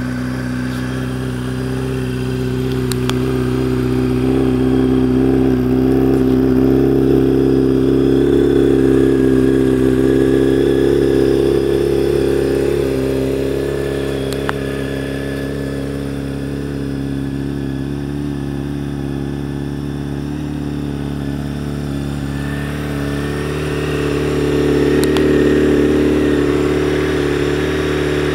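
1999 Honda CBR900RR Fireblade's inline-four engine idling steadily after a cold start, swelling a little in loudness twice.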